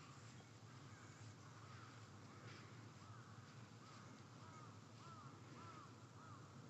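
A bird calling faintly outdoors: a series of short, arched call notes repeated about twice a second, starting about a second and a half in, over a low steady background hum.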